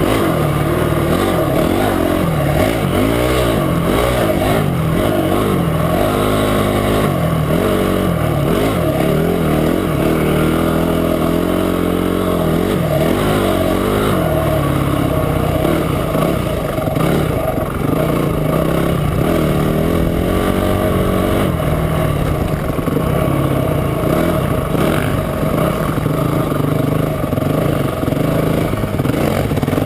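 Off-road motorcycle engine being ridden, its pitch climbing and dropping again and again as the throttle is worked, then running more evenly through the second half.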